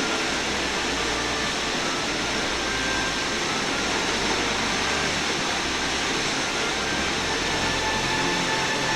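Steady rushing of a large waterfall: an even, unbroken wash of falling water.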